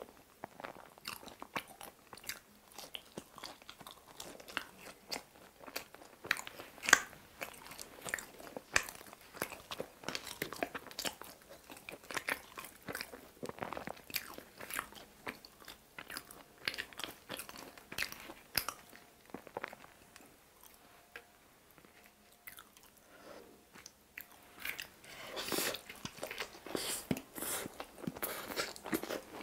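Close-miked biting and chewing of pizza: crunchy bites into the baked crust, with many small crackling and wet mouth sounds as it is chewed.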